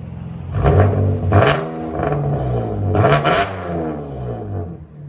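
Chevy Camaro RS 3.6L V6 revved from idle in two quick bursts, each rising and falling, through a true-dual exhaust with the muffler and resonator cut off and Dynomax Race Bullet resonators feeding quad tips.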